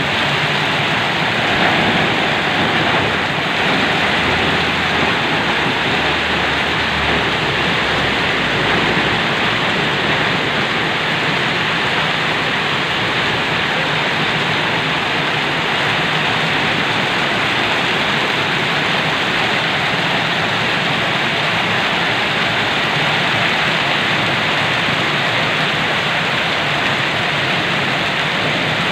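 Heavy rain falling, a steady, even hiss of rain on surfaces.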